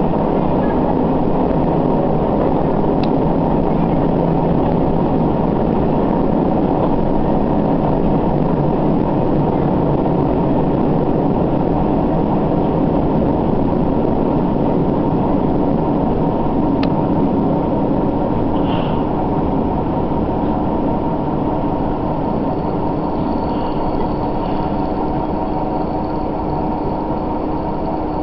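Cabin sound of a Sanriku Railway diesel railcar under way: the engine running steadily under the rumble of the wheels on the rails, easing slightly in level near the end.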